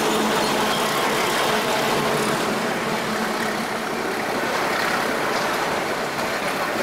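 Passenger train coaches rolling past at close range: a loud, steady rumble of wheels on the rails. A low drone from the diesel locomotive that has just passed fades out within about the first second.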